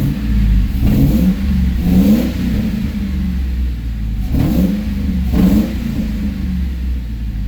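Car engine revved repeatedly through its exhaust: about five quick throttle blips, each rising and falling in pitch, with a steady low rumble between them.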